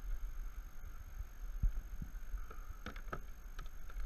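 A few short knocks and clicks of a kayak angler handling his fish and gear in the boat, with a cluster near the end, over a low steady rumble.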